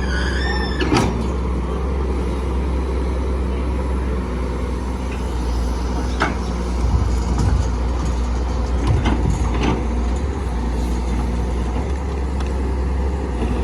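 Diesel engine of heavy construction machinery running steadily, with a few sharp knocks: about a second in, then near six, nine and ten seconds.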